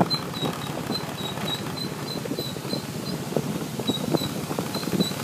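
Motorbike riding along a mountain road, with engine noise and wind buffeting the microphone in irregular jolts. A faint high chirping, several a second, runs above it.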